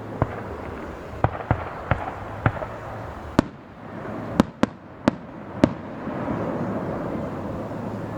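Aerial fireworks shells bursting: a string of about ten sharp bangs at uneven intervals, then a steadier, denser din near the end.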